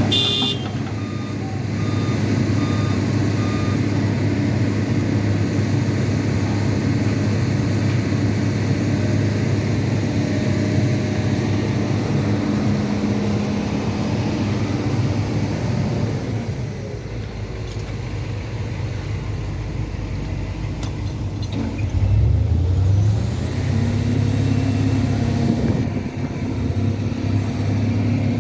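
Boom truck's engine running steadily, with a reversing alarm beeping for the first few seconds. About two-thirds of the way through the engine drops quieter, then picks up louder again.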